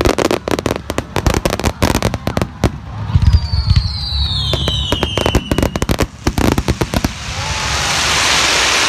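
Aerial fireworks going off: low booms and dense rapid crackling, with a falling whistle about three seconds in. From about seven seconds in, the crackle gives way to a steady rushing hiss.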